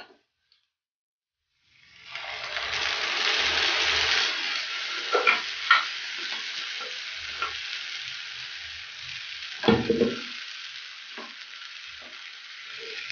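A blended tomato and garlic mixture poured into hot oil and sautéed onions in a frying pan, breaking into a loud sizzle about two seconds in that then eases to a steadier sizzle. A wooden spoon stirs it, with scattered knocks and scrapes against the pan, one louder knock late on.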